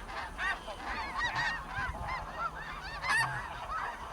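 A flock of snow geese calling: many short, high-pitched honks overlapping into a continuous chatter.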